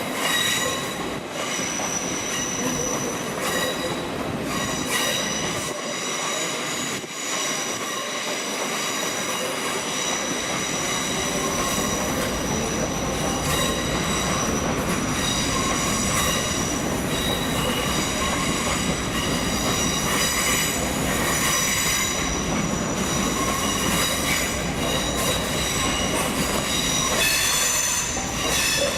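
A train running through the station on curved track, its wheels squealing against the rails in several steady high-pitched tones over a continuous rumble that grows heavier about ten seconds in.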